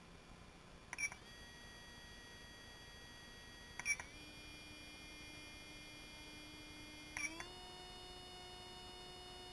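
A 13.5-turn sensored brushless motor running unloaded on a test rig, giving a faint high electronic whine. The whine jumps up in pitch in three steps, about every three seconds, each step marked by a short sharp blip as the motor is brought up in speed.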